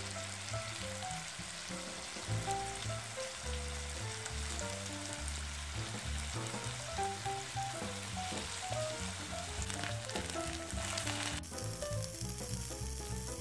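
Peeled sweet potato chunks frying in a shallow film of oil and sugar in a nonstick pan: a steady sizzle as the sugar starts to melt into a glaze. The sizzle drops off abruptly about three-quarters of the way through.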